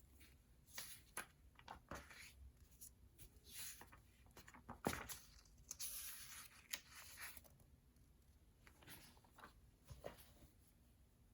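Faint desk sounds of someone studying: pen scratching on paper, paper rustling and small taps, with a longer rustle of paper about two-thirds of the way through.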